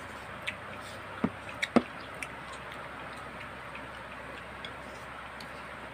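Wet mouth clicks and smacks of someone chewing ripe mango: a few sharp, irregular smacks in the first two seconds or so, then only faint ticks over a steady background hiss.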